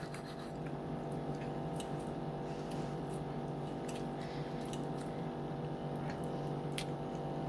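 A person chewing a mouthful of food, with soft wet mouth sounds and a few faint clicks, over a steady low hum.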